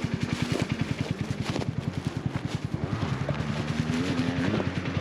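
Motocross bike engine idling with a steady low putter, then revving up and climbing in pitch from about three seconds in.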